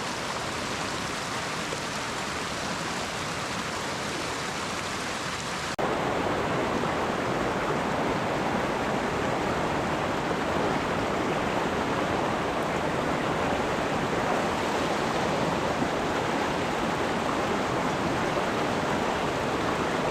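Steady rush of a mountain stream's flowing water. About six seconds in it cuts suddenly to a louder, fuller rush, as from a shot nearer the water.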